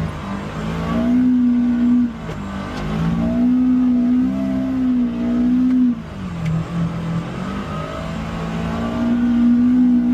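Off-road utility vehicle engine revving under throttle. Its pitch is held high, drops sharply twice (about two seconds in and about six seconds in) as the throttle is let off, and climbs again each time.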